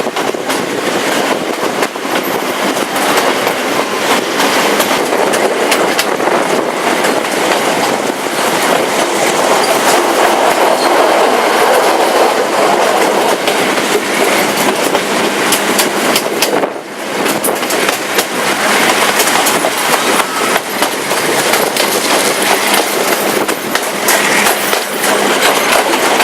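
Passenger train running along the track: wheels clicking over the rail joints over a steady rumble and rattle of the carriage, briefly quieter about 17 seconds in.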